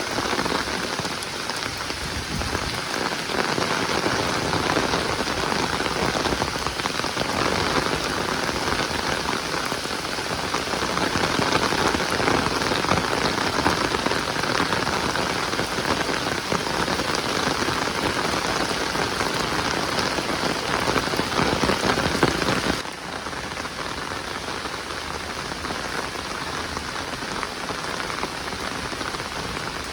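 Heavy rain falling in a steady, dense patter. About 23 seconds in it drops suddenly to a quieter, softer patter.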